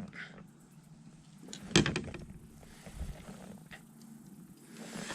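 Knocks and clicks from a fish and fishing gear being handled aboard a kayak, the loudest about two seconds in, over a low steady hum.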